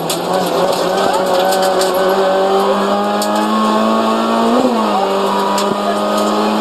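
Renault Clio RS rally car's 2.0-litre four-cylinder engine, heard from inside the cabin, pulling hard with its pitch climbing steadily. About four and a half seconds in it flares briefly and drops back, a gear change, then climbs again.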